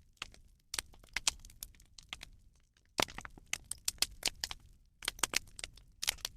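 A bonfire of burning rubbish crackling: irregular sharp pops and snaps that come in clusters.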